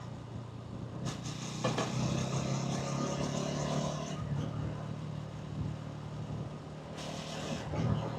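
Hansom Venett 125cc motorcycle engine and exhaust running on the move, picking up revs about a second and a half in and easing off again after a couple of seconds. Rushing noise rises over it twice.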